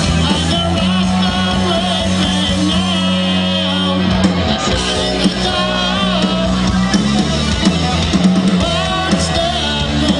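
Rock band playing live and loud: electric guitars and a drum kit, with a held low note underneath and wavering guitar or vocal lines on top.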